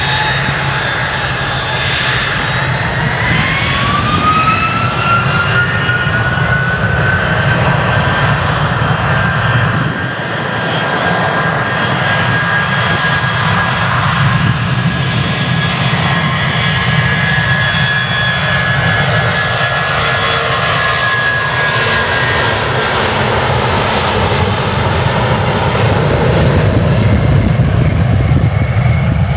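Jet airliner engines at takeoff power on departure. A whine rises in pitch a few seconds in and then holds steady over a loud, continuous engine rumble, with a hissing rush building toward the end.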